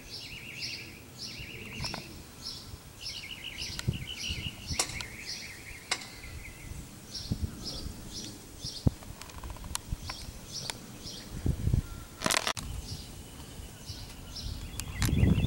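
Small birds chirping and trilling in quick repeated phrases, over low gusty rumbles of wind with a few sharp clicks.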